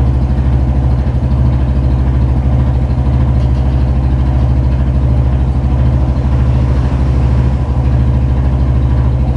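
Yamaha Fazer 250's single-cylinder engine idling steadily, with no change in speed. It carries the strange engine noise the bike was brought in for, which gets worse as the engine warms up.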